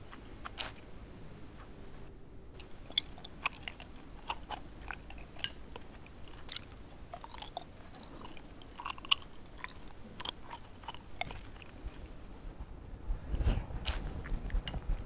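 Close-up eating sounds of raw fish being chewed and bitten: soft, wet mouth clicks and smacks scattered irregularly. A low rumble swells in near the end.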